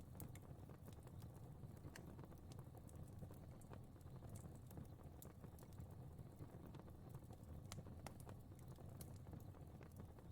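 Faint fire crackling: irregular sharp pops and snaps scattered over a low, steady rumble of burning.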